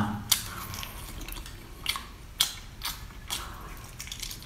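Close-up biting and chewing on an octopus tentacle: a series of sharp, irregularly spaced clicks and smacks from the mouth.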